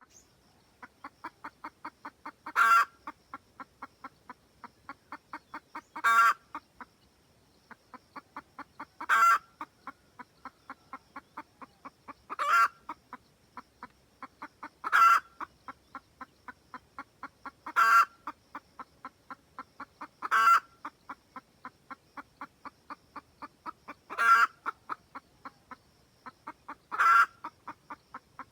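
Red junglefowl hen cackling over and over: a fast run of short clucks building to one loud, drawn-out squawk, the pattern repeating every three seconds or so, nine times. It is a hen's cackle calling a rooster.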